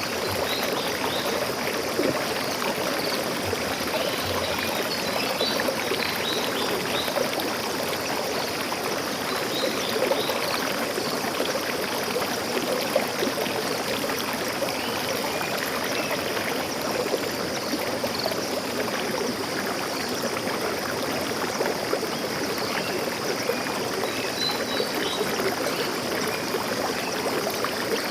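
Stream water flowing steadily, a continuous rushing sound.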